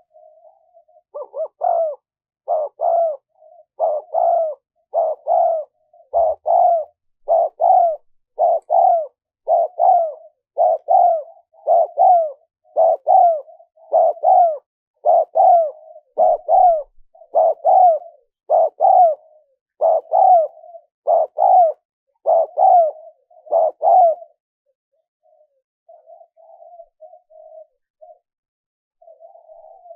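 Spotted dove cooing: a long run of repeated paired coos, about one pair every second and a quarter, that stops a little after twenty seconds in, followed by faint, softer cooing near the end.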